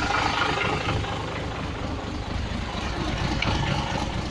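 Scania truck's diesel engine idling steadily, left running to build up air pressure in the air system.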